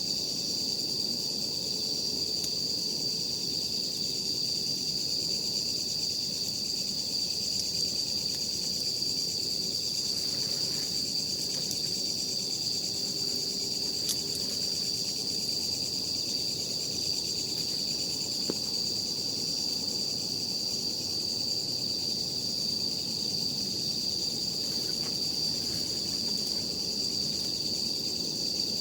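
Steady chorus of night insects, an unbroken high-pitched trill, with faint occasional crackles from a wood campfire.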